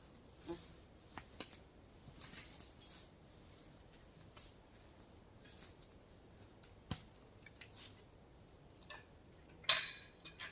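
Sparse, quiet clicks, knocks and rustles of logging gear being handled, with one louder metallic clank near the end.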